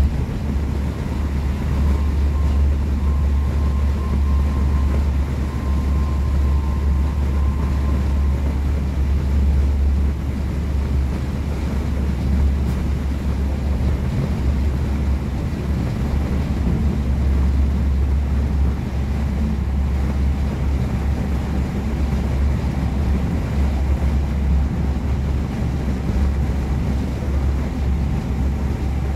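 Steady low rumble and rolling noise of a V2N double-deck passenger coach running at speed on the rails, heard from inside the carriage.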